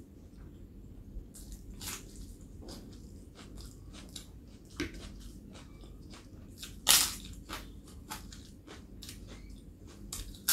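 Close-miked chewing and crunching of crisp papad, a run of short crackling bites, the loudest about seven seconds in.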